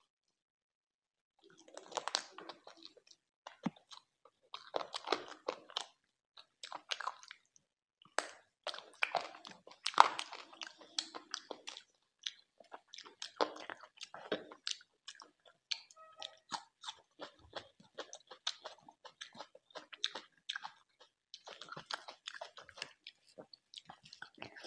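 A person biting and chewing curried chicken with rice, with wet smacking and crunching in irregular bursts that start after about a second and a half of silence.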